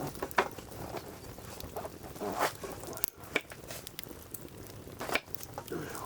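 Wood fire crackling, with irregular sharp pops and snaps of burning firewood.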